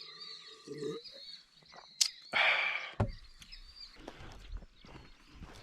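Songbirds chirping faintly in the background. About two seconds in there is a sharp click, then a short loud rustle, and after a knock a low rumble with scattered light clicks and crunches, like handling and steps on the ground.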